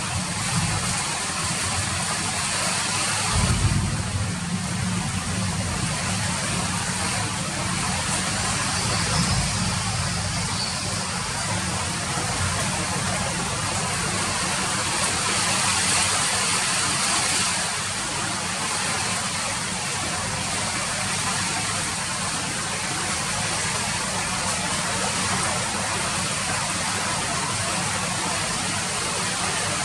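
Steady rain falling, an even hiss without pause, with a brief low rumble about three and a half seconds in.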